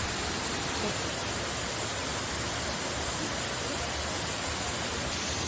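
Steady rushing of water: an even, unbroken roar with no rhythm or pitch.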